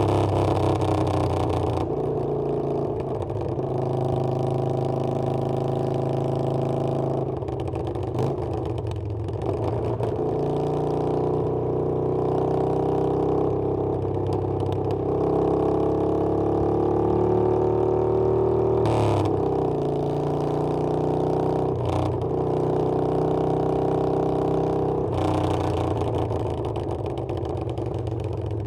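Harley-Davidson Iron 883's air-cooled V-twin running under way, its pitch climbing as the bike accelerates, with the note breaking and dropping at several gear changes.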